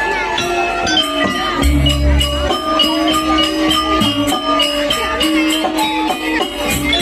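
Live Javanese gamelan-style music accompanying a dance. Sustained metallic tones ring over a quick, steady beat of jingling percussion, with a deep low stroke about two seconds in.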